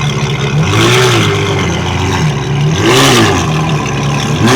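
A car engine being revved in short blips at a car meet. Its pitch rises and falls three times, about 1, 3 and 4.5 seconds in, and it idles steadily between the blips.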